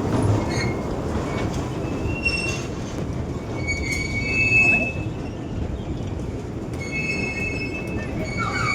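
Amusement-park miniature train running on its track: a steady rumble, with high thin wheel squeals coming and going several times.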